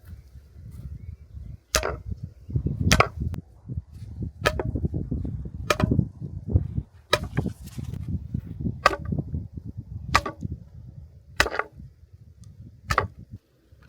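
Axe chopping wood: about nine sharp strikes at a slow, even pace, roughly one every second and a half, with duller knocks between them.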